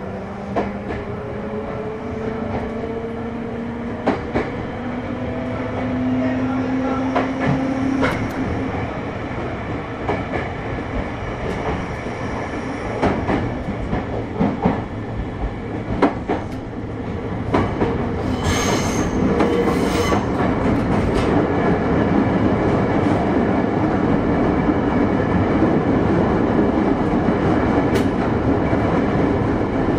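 Running sound inside a JR West 221 series electric train's motor car. A traction-motor hum rises in pitch over the first several seconds as the train gathers speed, with scattered rail-joint clicks. There is a brief burst of high wheel squeal about 19 seconds in, then steady loud running noise.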